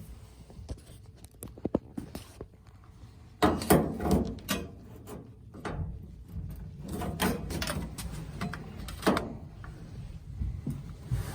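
Scraping, clicks and knocks of a spatula prying at a Kenmore gas dryer's top panel to pop its clips loose. The handling is loudest from about three and a half seconds in, with further knocks around seven and nine seconds.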